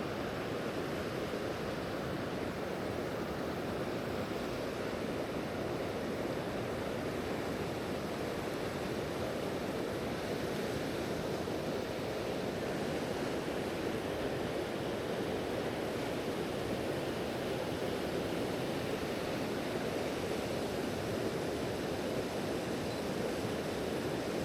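Steady, unbroken rush of water from a waterfall on a woodland creek.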